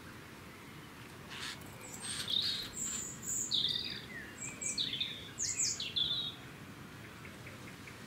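Birds calling: a run of short, high chirps for about five seconds, starting about a second and a half in and stopping a little after six seconds.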